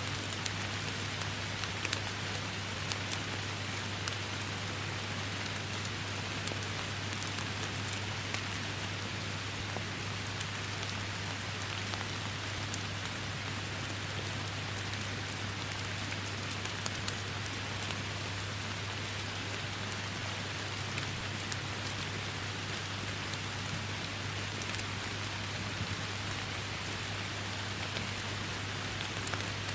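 Steady rain falling through forest, a continuous hiss with many separate drops ticking sharply on leaves and surfaces. A steady low hum runs underneath.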